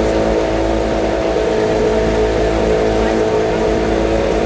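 A car engine running at steady revs, one constant drone that holds the same pitch throughout.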